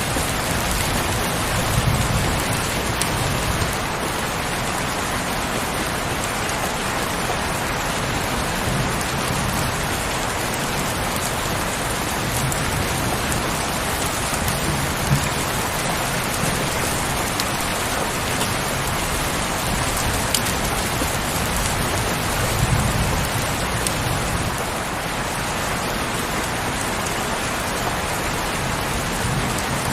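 Heavy rain falling steadily, with a few brief low swells now and then.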